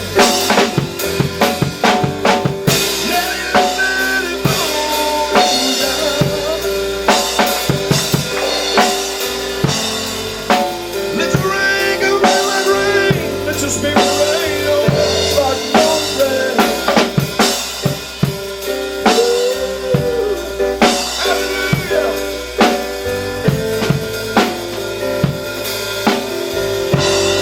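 Live gospel church band music: a drum kit playing busy, irregular fills with snare, bass drum and rimshots, over sustained chords and bass.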